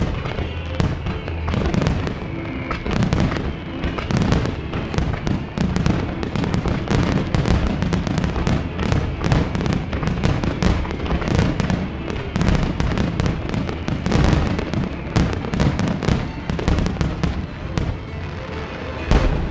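Rapid-fire barrage of aerial firework shell bursts, many bangs a second with crackling, over show music.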